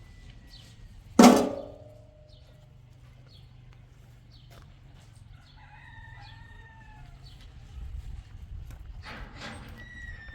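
Chicken calls: a loud, sharp squawk about a second in, then wavering calls around the middle and another burst near the end, over a faint low hum.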